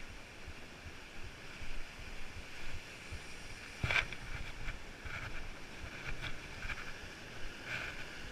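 Wind buffeting the microphone in uneven low gusts, with a single sharp knock about four seconds in.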